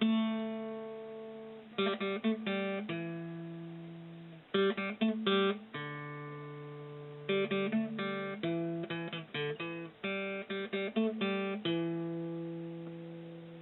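Background music: an acoustic guitar strumming chords, quick flurries of strums each followed by a chord left to ring out for a second or two.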